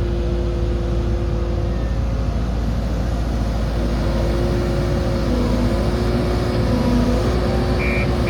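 Backhoe loader's diesel engine running steadily, a constant droning hum. A single short high-pitched electronic beep sounds near the end.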